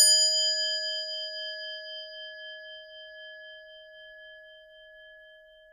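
A bell-like chime struck once, ringing out with a clear tone and slowly fading away, its higher overtones dying first.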